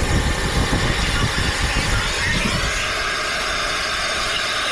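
A motor or engine running, with an uneven low rumble that settles into a steady hum about two and a half seconds in.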